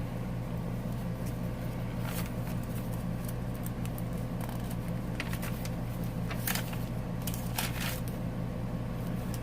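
Paper rustling and light clicks as the pages and tags of a handmade paper journal are handled and turned, a few separate times, over a steady low hum.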